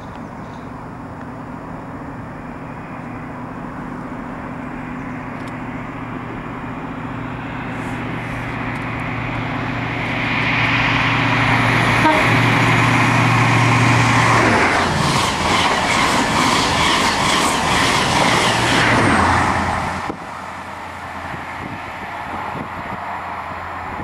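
A Class 43 HST with MTU diesel power cars passes through the station at speed. The engine grows louder as it approaches and a horn tone sounds about ten seconds in. Then the coaches go by with rapid wheel clicks on the rail joints, and the sound drops off sharply about twenty seconds in, leaving a lower engine hum.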